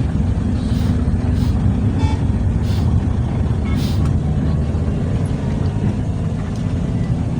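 Heavy diesel dump truck engine running steadily, with a few short hisses in the first four seconds.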